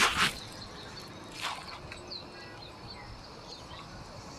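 Quiet outdoor ambience with a few faint, short bird chirps and a couple of brief rustles, one at the start and one about a second and a half in.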